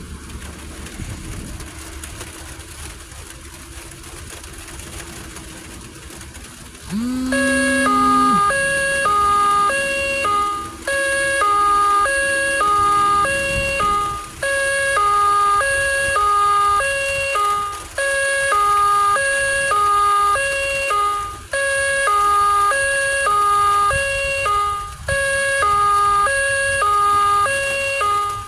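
Steady rain-and-wind noise, then about seven seconds in a loud electronic two-tone alarm starts, alternating quickly between a high and a low tone and repeating in cycles about three and a half seconds long.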